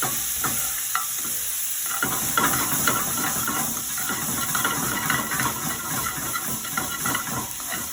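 Sliced onions, bell peppers, minced garlic, ginger and lemongrass paste sizzling in hot oil in a pan while being stirred, the utensil scraping and clicking against the pan in an irregular run of short strokes.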